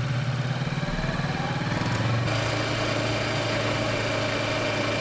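Kawasaki Versys motorcycle engine running under way, its pitch rising over the first couple of seconds and then holding steady.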